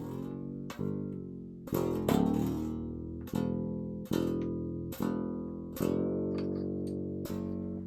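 Low strings of a 27-inch baritone electric guitar plucked one after another about once a second, each note ringing on while the fresh strings are brought up to pitch. A few notes bend slightly.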